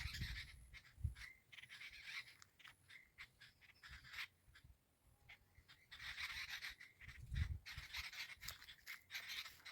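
Pet parrots making faint scratchy chatter with soft clicks, and a few low thumps.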